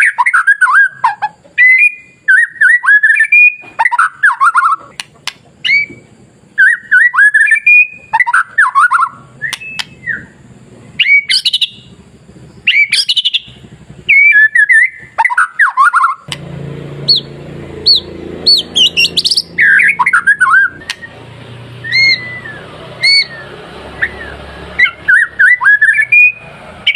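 White-rumped shama singing: loud, varied whistled phrases of quick notes sweeping up and down, broken by short sharp calls. About two-thirds of the way through, a low background rumble comes in beneath the song.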